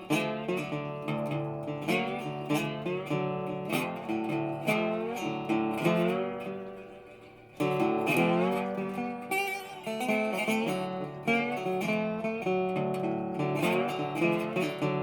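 Acoustic guitar music, plucked and strummed notes, fading down briefly and coming back in abruptly about halfway through.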